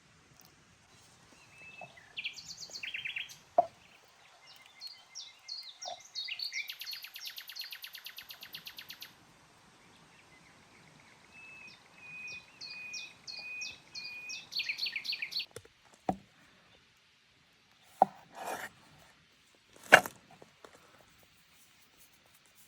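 Songbirds singing: a run of chirps and whistled notes, with a fast, buzzy trill. Near the end come a few sharp knocks and a short scrape.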